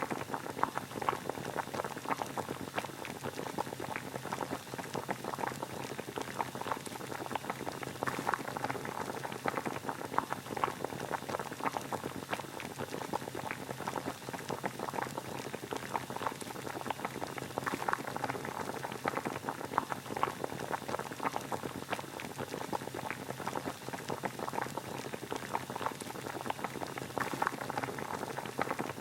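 Water boiling steadily: a continuous bubbling of many small pops at an even level, used as white noise.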